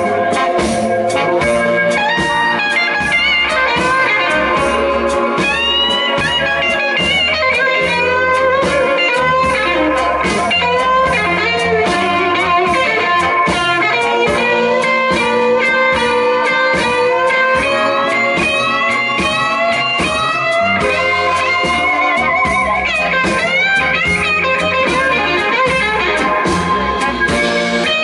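Live blues band playing an instrumental passage: electric guitar lead with bending, sliding notes over bass and drums.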